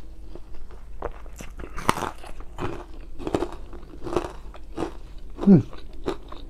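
Close-up chewing with a full mouth: wet mouth clicks and some crunching, without words. About five and a half seconds in, a short falling hum of the voice stands out as the loudest sound.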